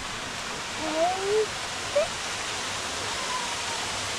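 Steady rush of a waterfall falling into a rock pool, with a short rising call from a voice about a second in.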